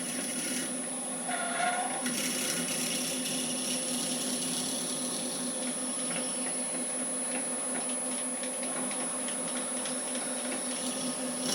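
Electric drill running steadily at a constant pitch as it bores a hole straight through the middle of a workpiece.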